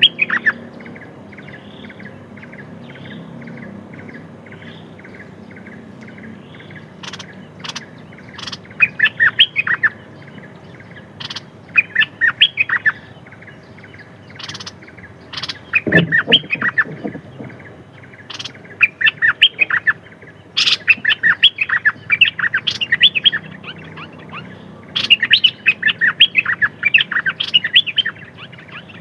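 Small songbird calling: a steady run of evenly repeated chirps, then bursts of quick chattering notes, with a few sharp single clicks in between.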